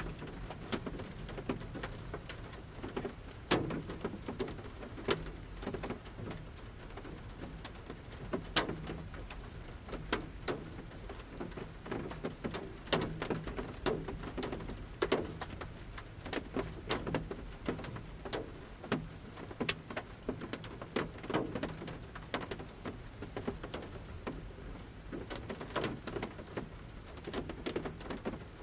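Large raindrops falling from the forest canopy onto a camper van's roof at irregular intervals, heard from inside the van: scattered sharp taps, some loud, over a soft steady rain hiss.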